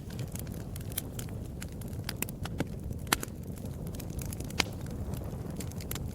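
Fire crackling in a fireplace: a steady low rumble of flames with frequent sharp snaps and pops, two of them louder, about three and four and a half seconds in.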